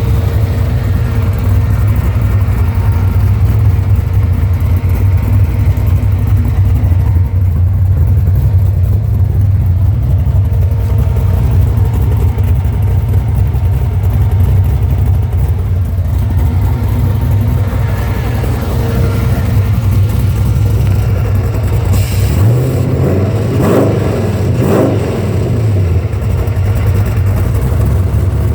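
GM LS V8 swapped into a 1950 Chevy truck, idling with a steady low rumble and revved up and back down a couple of times near the end.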